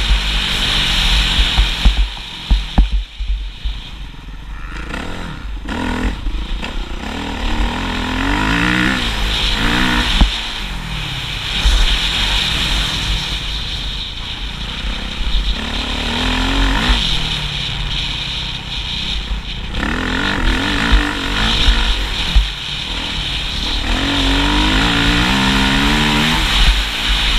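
Motocross bike engine revving up and down over and over, its pitch climbing and falling with each burst of throttle, with short drops in between.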